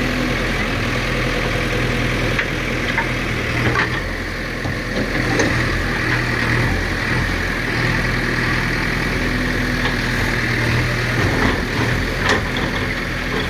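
Diesel engine of a JCB backhoe loader running steadily during house demolition, with a few short sharp knocks from the work.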